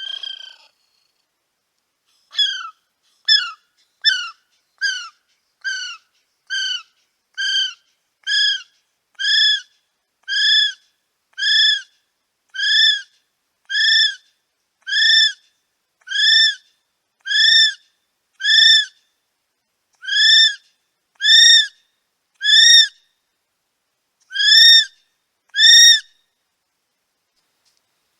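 Male kiwi calling: a long series of about twenty whistled notes, each rising and falling in pitch. The notes come about one every 0.7 s at first, then slow to about one a second as they grow longer and louder. The series stops a couple of seconds before the end.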